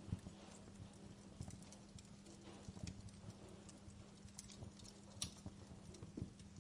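Wood fire crackling softly, with irregular low knocks and a few sharp pops, over a faint steady hum.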